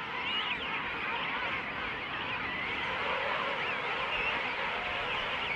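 Dense chorus of a large king penguin colony: many birds calling at once, their wavering calls overlapping into a steady din.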